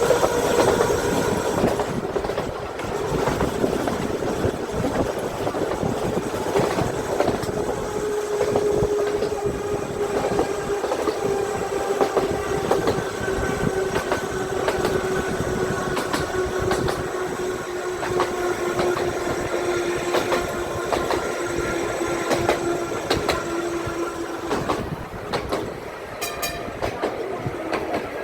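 Electric tram of the Seaton Tramway running along its narrow-gauge track, with a rolling rumble, repeated rail clicks and a steady whine that falls slowly in pitch and stops near the end.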